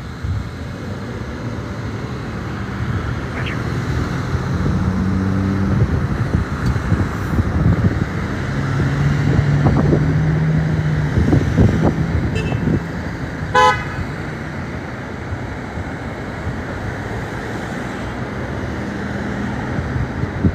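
Street traffic: car and truck engines running and passing at a congested intersection, with a short horn beep about two-thirds of the way through.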